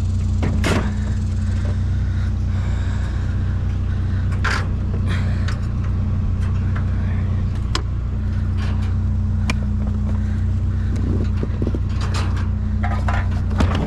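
Truck engine running steadily, a constant low hum, with scattered sharp clicks and knocks over it.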